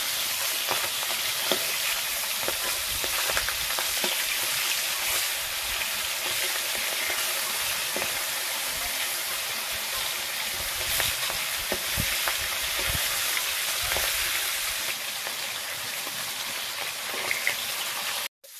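Fish pieces frying in hot oil in an iron kadai: a steady sizzle, with the metal spatula scraping and tapping against the pan now and then as the pieces are stirred and turned.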